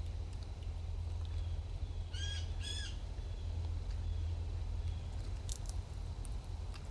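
A bird gives two short, harsh calls about half a second apart, over a steady low hum.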